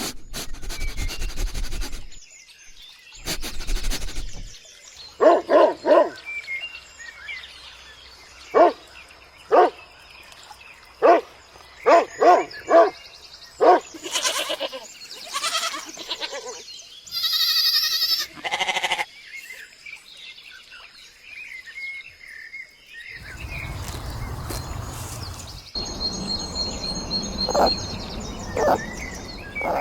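Donkeys braying in a series of separate recordings joined with abrupt cuts: short, repeated pitched calls, with bird chirps in the background in places.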